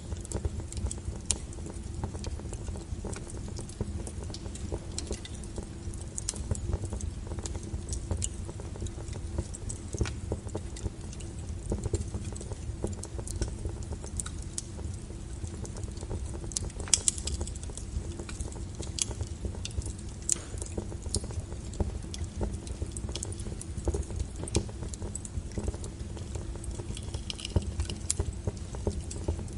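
Wood fire burning with a low steady rumble and irregular sharp crackles and pops of burning firewood, a cluster of louder pops about seventeen seconds in.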